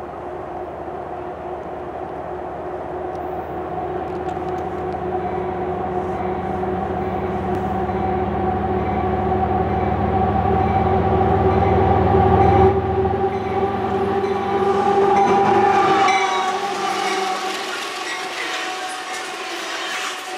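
Diesel locomotives of a CP coal train approaching and passing close by: a low engine rumble with a steady pitched drone over it, growing louder. About three-quarters of the way in the rumble falls away and the coal cars roll past with rattling wheel noise on the rails.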